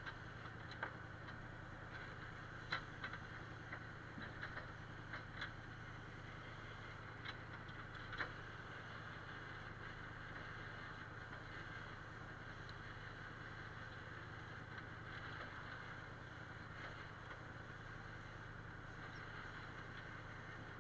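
A steady low engine hum at low level, with a few light clicks and knocks scattered through the first several seconds.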